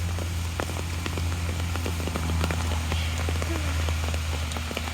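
Rain falling, with many irregular sharp drop ticks landing close by, over a steady low rumble.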